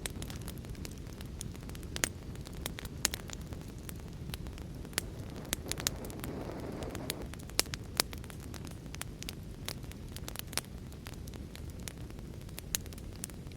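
Wood fire crackling, with sharp, irregular pops over a steady low rushing noise of rain. A soft swell of noise rises and fades about six seconds in.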